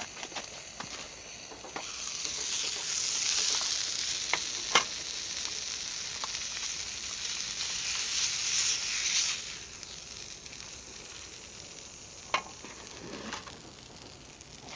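Food sizzling in a hot pan, the sizzle swelling about two seconds in and dying down after about nine seconds, with a few sharp metallic clicks.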